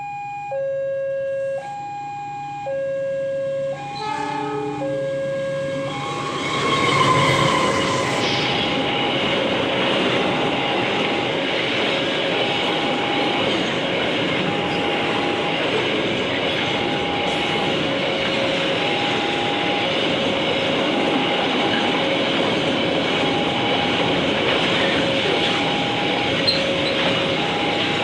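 Railway level-crossing alarm sounding two alternating electronic tones, switching about once a second. A short train horn blast sounds about four seconds in, and from about six seconds a train passes loudly over the crossing while the alarm keeps sounding underneath.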